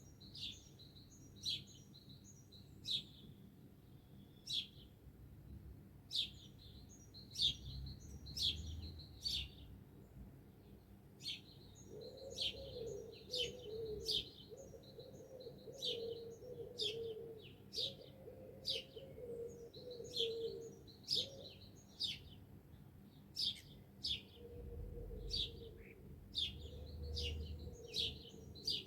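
Small songbirds chirping, with short, sharp, falling chirps in quick runs throughout. About twelve seconds in, a lower wavering tone joins in stretches.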